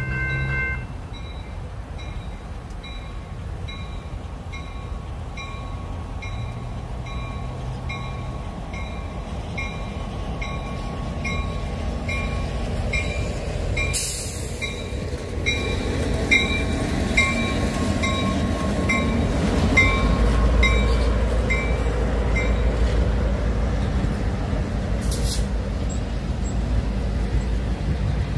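Railroad crossing bells ringing steadily, about one and a half strokes a second, as a passenger train comes through the crossing. A train horn ends about a second in. From about twenty seconds in, the low rumble of the train rolling past becomes the loudest sound.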